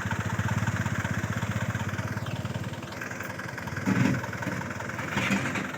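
Loaded truck's diesel engine running with a rapid, even pulse, stronger for the first two seconds or so and then easing off.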